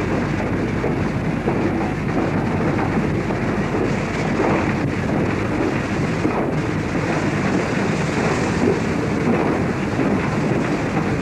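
Steam train behind a Mikado locomotive running with a steady rumble, with wind buffeting the microphone.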